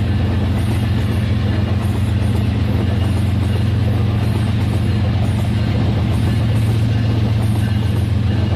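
Toy train running steadily on its track: a constant low motor-and-wheel hum with a faint, evenly repeating clicking above it.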